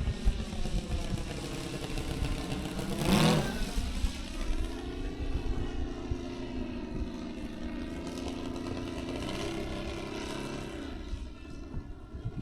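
Saito FG-60R3 three-cylinder four-stroke radial petrol engine of a quarter-scale Sopwith Pup RC model in flight, its drone sliding in pitch as the plane passes, louder for a moment about three seconds in.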